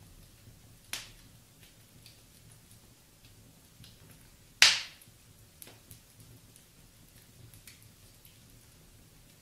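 Wood fire burning in a fireplace, crackling softly with faint scattered ticks. A sharp pop comes about a second in, and a much louder pop about halfway through.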